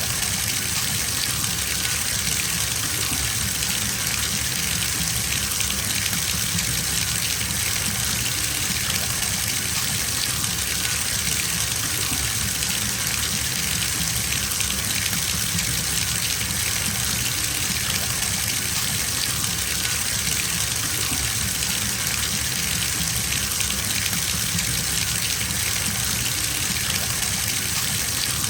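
Bathtub filling from the tap: water gushing steadily into the tub, an even hiss with a low rumble and no changes.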